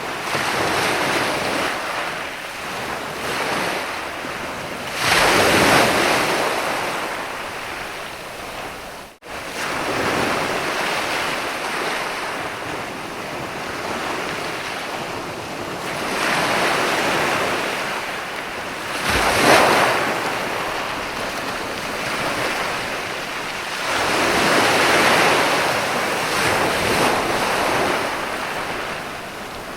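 Ocean waves washing onto a sandy beach: a continuous rush of surf with louder surges about five, nineteen and twenty-five seconds in. The sound cuts out for an instant about nine seconds in.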